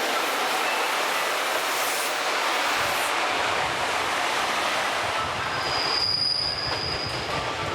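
Train running on rails, a loud steady rushing noise that gains a deeper rumble about three seconds in, with a thin high wheel squeal for about a second and a half near the end.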